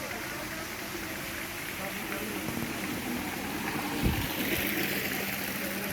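Water running and splashing steadily at a waterfall, with indistinct voices beneath it. A thump about four seconds in is followed by a brighter rush of water.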